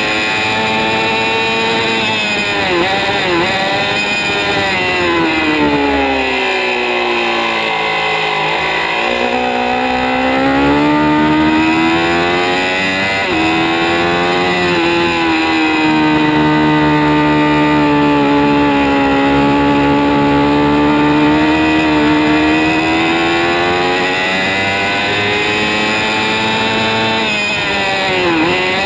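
2006 Kawasaki ZX-6R's 636 cc inline-four engine at high revs, heard on board at track speed. Its pitch drops over about five seconds a few seconds in as the bike slows, climbs again, then holds steady for about ten seconds. Brief quick dips come near the start and near the end.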